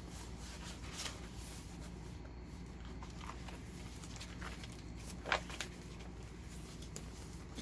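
Faint handling of a handmade paper journal: soft paper rustles and a few light taps, the clearest about five seconds in, over a steady low hum.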